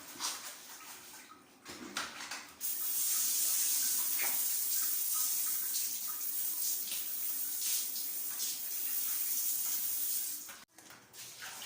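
A few knocks and handling clicks, then about two and a half seconds in, water starts running hard and steady, as from a tap or shower in use while cleaning. The water cuts off suddenly near the end.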